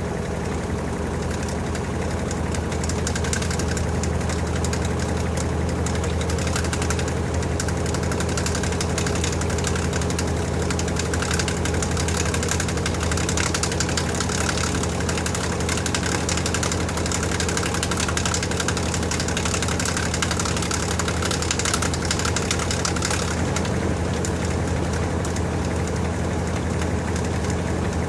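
LG TurboDrum WT-R852 top-loading washing machine running with a full load of bedding: a steady low motor hum under a rushing noise from the drum, which grows a little louder about two seconds in.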